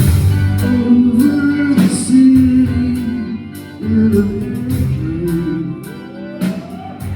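Live rock band playing an instrumental passage: guitars, bass and drums, with a rising slide in pitch near the end.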